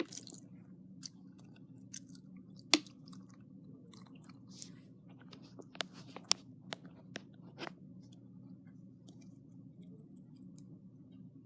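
Scattered small clicks and taps of a plastic Hot Wheels car wash toy being handled, with the sharpest snaps about three and six seconds in, over a faint steady hum.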